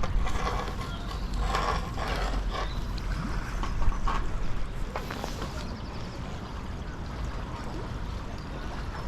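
Steady low rumble of wind on the microphone, with a few sharp knocks in the first half and faint irregular mid-range sounds that fade after about five seconds.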